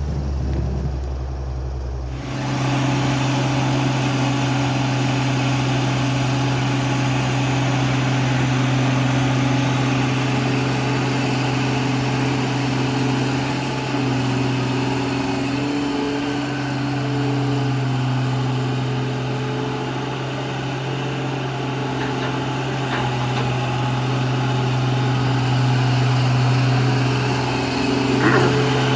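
Heavy diesel engine of logging equipment running steadily, its pitch dipping and rising a little as the load changes. The sound changes abruptly about two seconds in.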